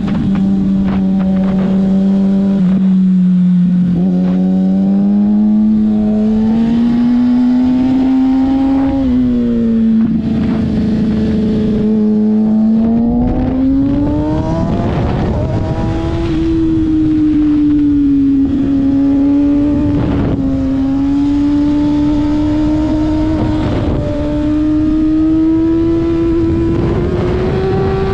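Kawasaki ZX-6R 636's inline-four engine running hard on track, its pitch climbing slowly and dropping back several times as the rider works the throttle and gears. Wind rush on the helmet microphone grows louder from about halfway through.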